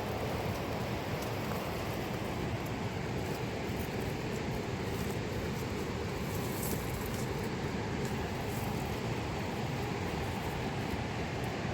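A fast mountain river rushing, a steady, even roar of water with no breaks.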